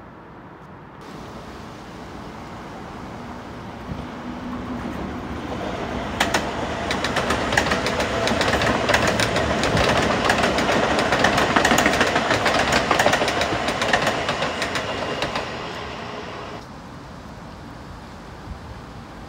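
Long Island Rail Road passenger train passing at speed. The wheel-and-rail rush builds over several seconds and peaks with rapid clicks of wheels over rail joints, then falls away about sixteen seconds in.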